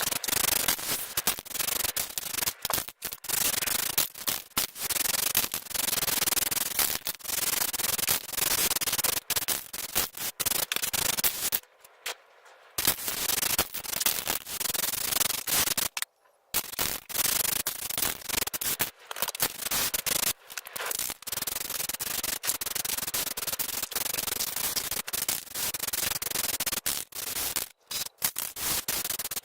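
Hand abrasion of the vise's metal parts, rubbed in repeated back-and-forth strokes, stopping briefly twice.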